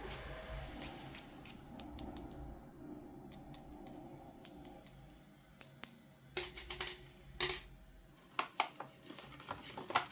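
Toy packaging being handled: plastic and cardboard rustling, with irregular sharp clicks and taps that come thicker in the second half.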